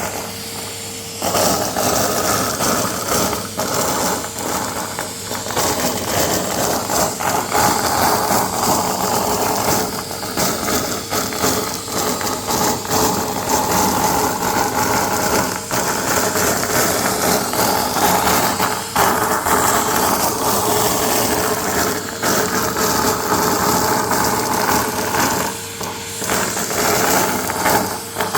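Vacuum cleaner running and sucking up confetti: a dense rattle of small pieces clicking through the nozzle and hose over the motor's steady whine. The rattle thins briefly near the start and again near the end, when the motor's hum stands out.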